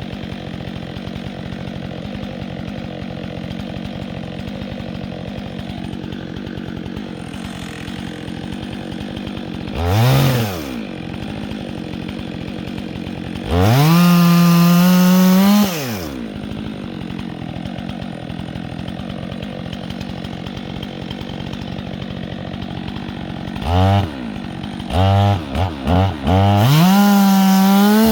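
Chainsaw idling, revved briefly about ten seconds in, then run at full throttle for about two seconds. Near the end it is blipped a few times and then held at full throttle.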